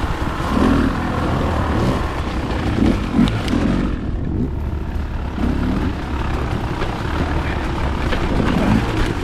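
Dirt bike engine running while being ridden, its note swelling up and down every second or two.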